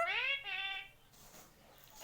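Indian ringneck parrot giving two high, drawn-out, voice-like syllables in the first second, its talking mimicry.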